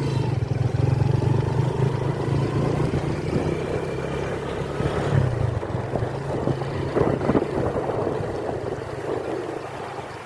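Vehicle engine running steadily with a low hum, under the continuous noise of heavy rain.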